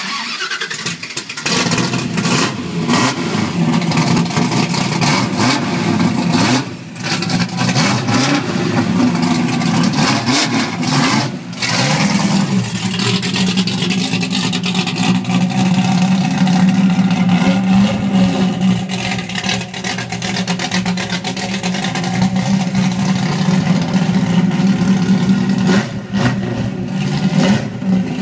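1971 Dodge Challenger R/T's 440 stroker big-block V8 running under way, pulling through the gears of its 5-speed manual, with brief drops in the engine note a few times.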